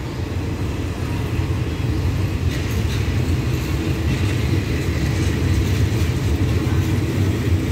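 Passenger train coaches rolling along the platform track: a steady low rumble of wheels on rails, with some added hiss from about two and a half seconds in.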